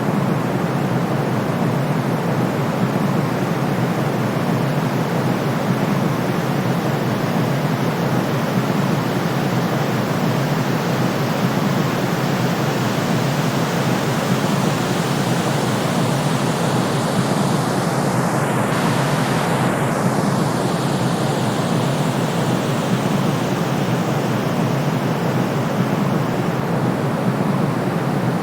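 Steady electronically generated sleep noise of the kind sold as white noise for soothing babies: a constant, even rushing hiss, weighted toward the lower tones, that does not change.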